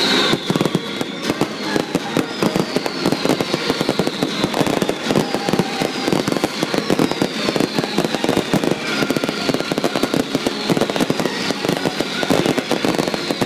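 A fireworks display with many shells and ground fountains firing at once: a dense, unbroken barrage of bangs and crackling. High whistles falling in pitch sound over it about once a second.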